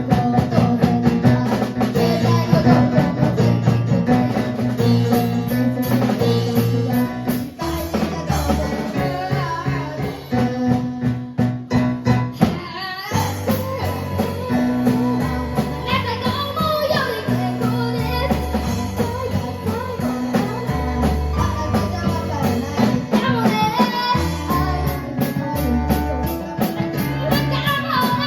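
A children's band playing live: drum kit, keyboard and a sung vocal line. About ten seconds in there is a run of drum hits and a brief break, then the band comes back in with the singer.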